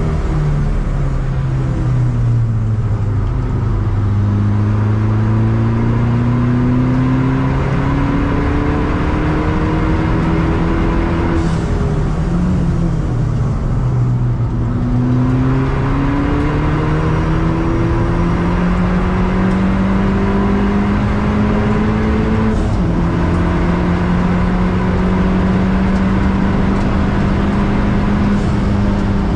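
Ford Fiesta ST180's turbocharged 1.6-litre four-cylinder engine heard from inside the cabin at racing speed, with road and wind noise. The engine note falls early on under braking, then climbs, drops and climbs again through the gear changes, and is held at high revs near the end.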